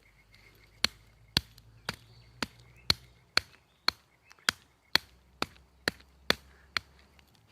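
A blade chopping wood: about thirteen sharp, evenly paced strikes, roughly two a second.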